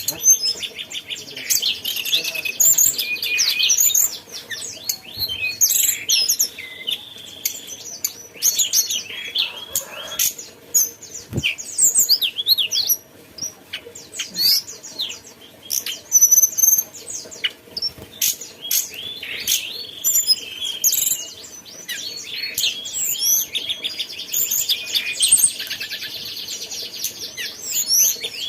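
A tledekan gunung songbird singing continuously and prolifically: a fast, varied stream of high chirps, sweeping whistles and rapid rattling trills.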